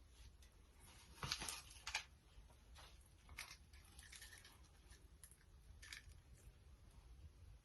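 Faint crunching bites and chewing of Takis-crusted fried chicken, in short scattered crackles, the loudest a little over a second and about two seconds in.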